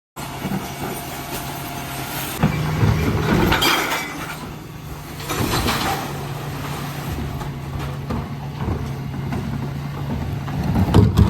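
Dennis Elite 6 refuse truck running steadily at a low hum, with two louder rushes of noise in the middle and a sharp knock near the end.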